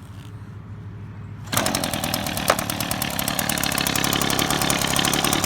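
Echo PB-265L leaf blower's two-stroke engine starting about a second and a half in, then running steadily with a fast, even firing beat.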